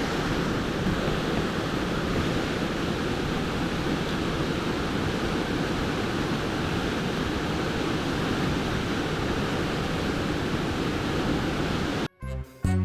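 Steady rushing of flowing water from a mountain stream, an unbroken roar that cuts off abruptly near the end.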